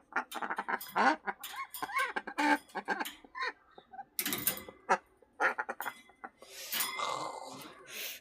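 Pet ducks quacking: a quick run of short calls through the first few seconds, then scattered calls mixed with noisier, hissy sounds near the end.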